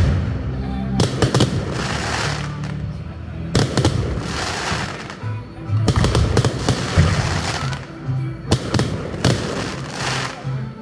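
Fireworks going off in repeated sharp bangs and crackles, over music.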